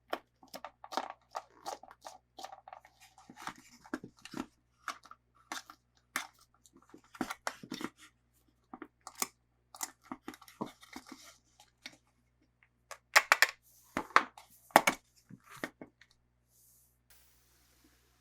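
Toy packaging being opened and handled by hand: irregular crinkling, tearing and tapping of plastic and cardboard. About two-thirds of the way through there is a louder cluster of clicks, and the sound dies away near the end.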